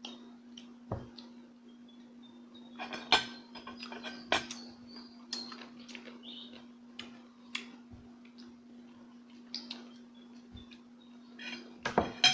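Cutlery clinking and tapping against plates at irregular moments, with a cluster of louder clinks about three seconds in and again near the end, over a steady low electrical hum.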